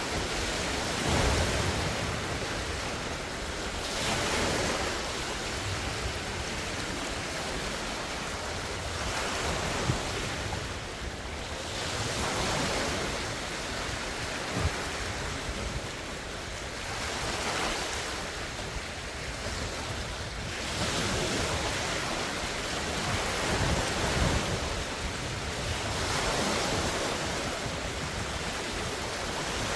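Large lake waves breaking and washing on the shore in strong wind, the surf swelling and easing every few seconds, with wind rumbling on the microphone.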